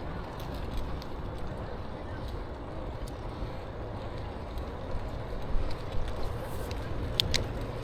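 Steady low rumble of a bicycle riding along a trail: tyres rolling and wind on the microphone, with a couple of sharp ticks near the end.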